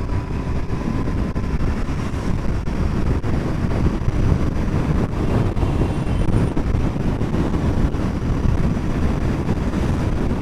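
Steady wind rush over the microphone of a moving motorcycle, with the Royal Enfield Continental GT 650's parallel-twin engine running underneath at cruising speed.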